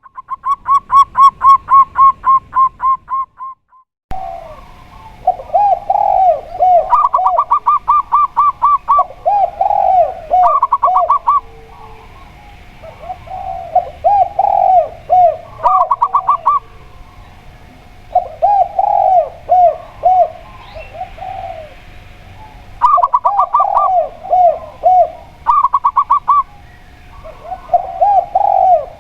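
Zebra dove (perkutut) and spotted dove (tekukur) cooing in turn. The zebra dove gives quick runs of higher staccato coos; the spotted dove answers with grouped, lower, rolling coos. The first few seconds hold only a run of rapid higher notes, and this breaks off at a sudden cut before the two begin to alternate.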